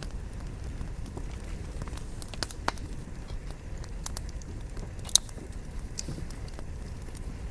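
Wood campfire burning: scattered crackles and pops over a low steady rumble, with the sharpest pop about five seconds in.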